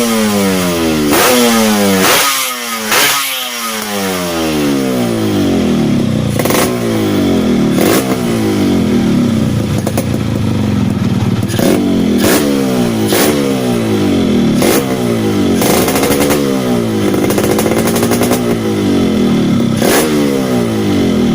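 Yamaha RX-King's two-stroke single-cylinder engine being blipped over and over, each rev rising sharply and falling back toward idle. It runs loud and raw through a stock exhaust with its baffles gutted out.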